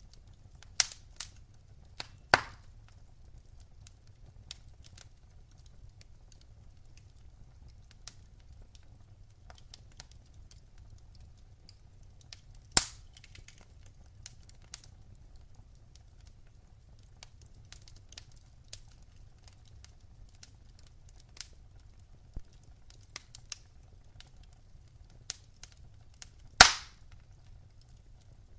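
Wood fire crackling in a fireplace: a low steady rumble of flames under scattered small ticks and snaps, with a few loud sharp pops, the loudest near the end.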